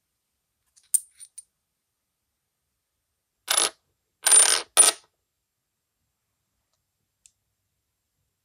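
Small metal parts clinking together: a sharp click with two faint taps, then three short clattering bursts with a high metallic ring.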